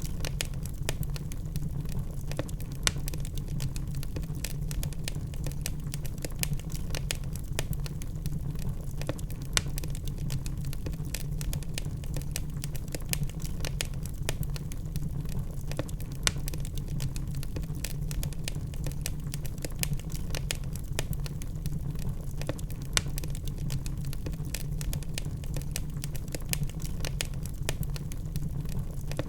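Wood fire burning in a fireplace: a steady low rumble of flames with dense, irregular crackling and an occasional louder pop.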